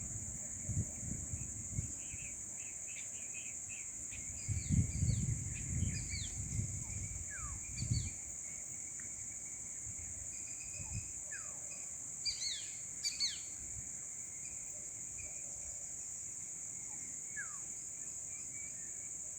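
Outdoor ambience of a constant high-pitched insect drone with many short, falling bird chirps and calls, busiest in the first half and again around twelve to thirteen seconds in. A few dull low thumps come between about four and eight seconds in.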